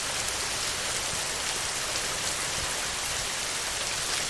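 Heavy rain falling steadily: a dense, even hiss of many drops with no let-up.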